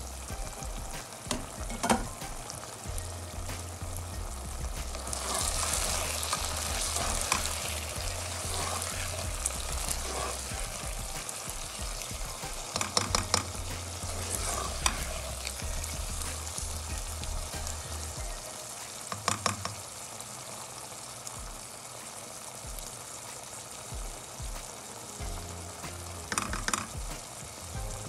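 Okra, onion and tomato sizzling as they fry in oil in a non-stick wok. A spatula stirs the vegetables and now and then scrapes and knocks against the pan in short clattering bursts.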